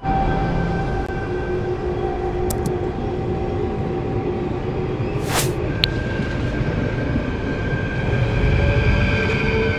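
Arriva regional train at the platform, running with a steady rumble and several steady whining tones, and a short hiss about five seconds in. Near the end the whine starts to rise in pitch.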